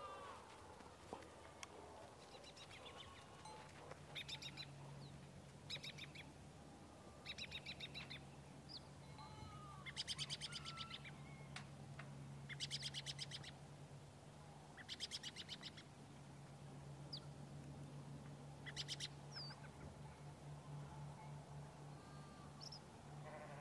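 Birds calling in short bursts of rapid trills, about every two seconds, with a few thin single chirps between them, over a faint steady low hum.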